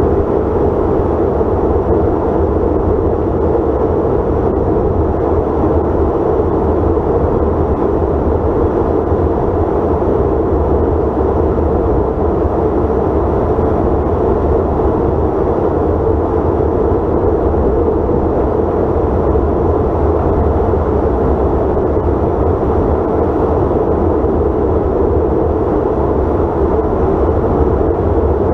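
Steady cabin noise of a CRJ900 regional jet in flight: a constant drone of its rear-mounted jet engines and rushing air, with a low rumble underneath.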